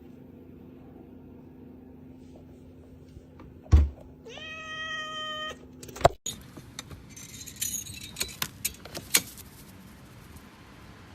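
A thump, then a cat's long meow held on one pitch for about a second. After it comes a run of clicks and rattles.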